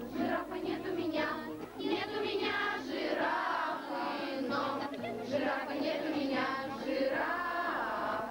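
A group of children singing a simple, repetitive song in unison.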